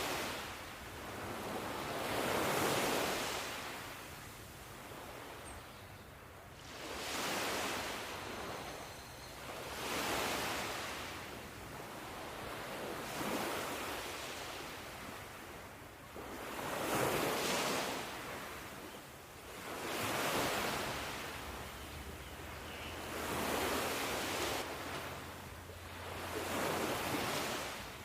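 Ocean waves washing ashore in a steady cycle, each surge of surf swelling and falling away about every three to four seconds.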